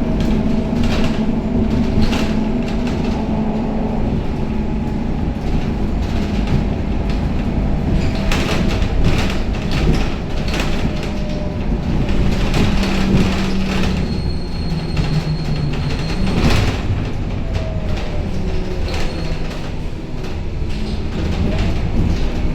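Scania K270UB city bus under way, heard from inside the cabin: a steady engine drone with body and fitting rattles and knocks throughout. The drone falls in pitch about two-thirds of the way in, with a thin high tone for about two seconds and a sharp knock just after.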